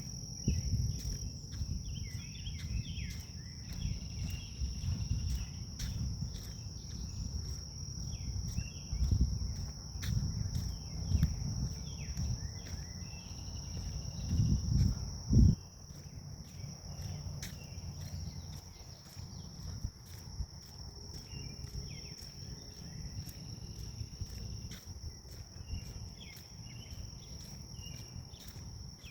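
Grass insects trilling steadily and high, with scattered bird chirps. Gusty low wind rumble on the microphone comes and goes through the first half, with its loudest gust about halfway, then eases off.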